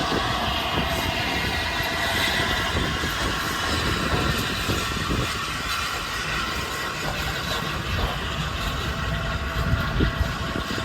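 Railway train running on the track: a steady rumble with a hiss and a few steady high tones over it, and some brief knocks.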